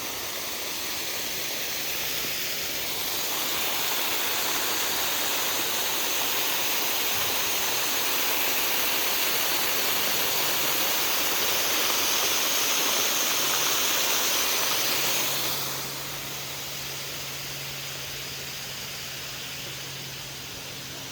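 Steady rushing of the Bear Run waterfall beneath the house. It grows louder a few seconds in and drops off abruptly about sixteen seconds in.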